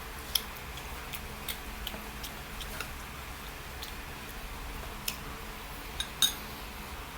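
Eating sounds: scattered light clicks and taps, irregular, a few a second, with two sharper ones about a third of a second in and near the end.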